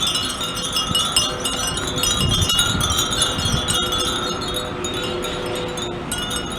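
Many Japanese furin wind chimes ringing in the breeze: a dense, continuous tinkling of overlapping high, bell-like tones.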